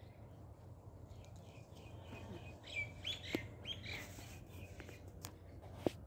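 A few birds chirping in short quick notes, clustered in the middle. A sharp click comes near the end, over a steady low rumble.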